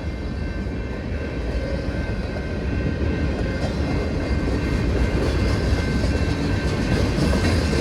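CSX freight train's cars rolling past at close range: a steady rumble and clatter of steel wheels on the rails.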